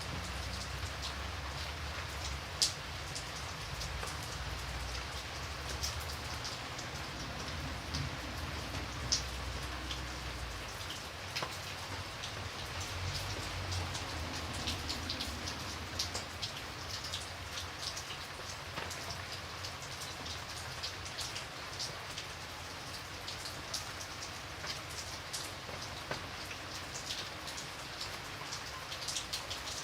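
Steady rain falling, with many individual drops ticking sharply on a surface over an even hiss. A low rumble underneath fades out about ten seconds in.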